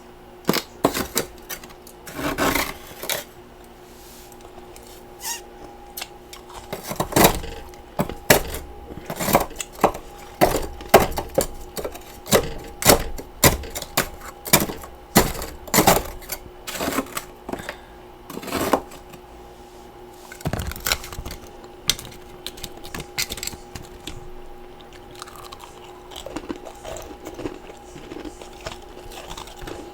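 Close-miked chewing of freezer frost and ice chunks: a run of sharp crunches, strongest and most frequent in the middle and lighter and sparser toward the end, over a faint steady hum.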